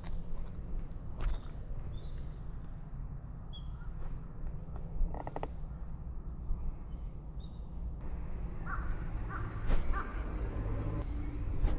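Crow cawing several times, a run of harsh calls close together near the end, over a steady low rumble.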